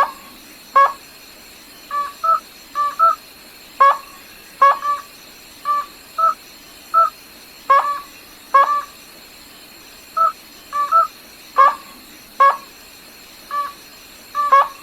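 A rail calling over and over: short, sharp, clipped notes, some single and some in quick pairs, at uneven spacing of roughly one or two a second. A faint steady high-pitched tone runs underneath.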